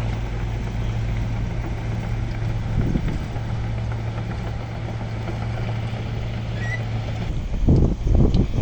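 Heavy diesel engine of earthmoving machinery running steadily with a low, even hum, with louder, irregular low rumbling near the end.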